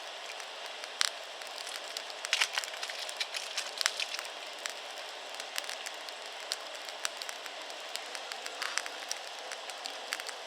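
Wood campfire crackling, with frequent sharp pops from the burning wood over a steady hiss, a quick cluster of them about two and a half seconds in.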